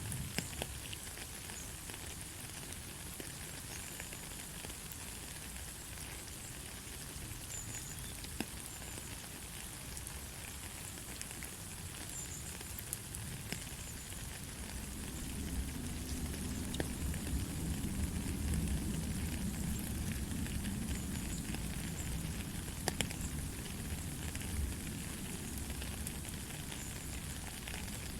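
Steady light rain with scattered crackly drop clicks. About halfway through, a low rumble swells up under the rain and stays.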